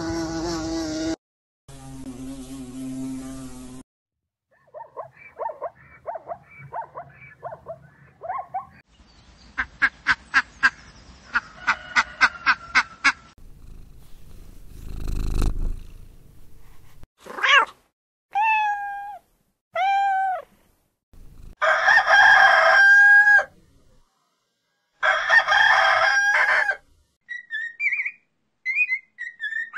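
A string of different animal calls, one short clip after another with brief gaps: a run of quick repeated calls, a burst of rapid clicking notes, several falling calls, then two loud drawn-out calls near the end and some chirps.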